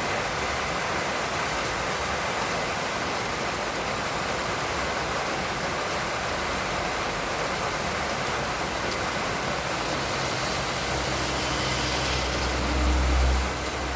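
Heavy rain falling steadily as an even hiss. A low rumble swells briefly near the end.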